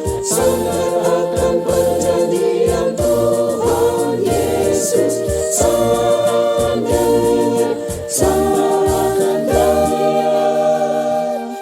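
Church choir singing a hymn in multi-part harmony, holding sustained chords that change every second or so.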